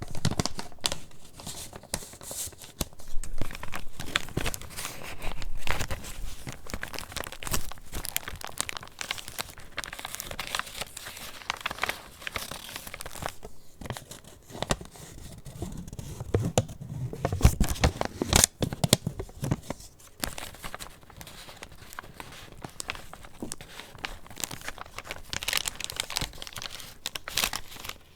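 Paper pages of a handmade junk journal being handled and turned, rustling and crinkling in a dense, irregular run of flicks and brushes.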